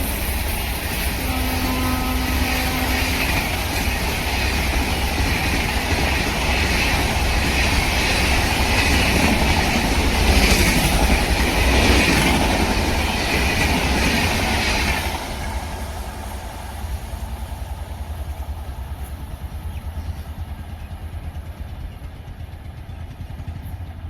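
A train passing at speed on a railway line, with a short horn note about a second in. The rumble and rush of the passing train build to a peak, drop off sharply about two-thirds of the way through, then fade with the rattle of the last wheels and coaches going by.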